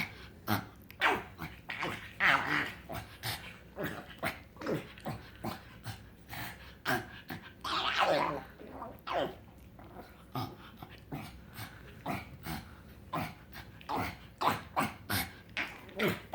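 A pug making short whining and grumbling vocal noises in a quick, irregular series, with a longer falling whine about eight seconds in. These are the odd noises the pug makes when he is happy and excited.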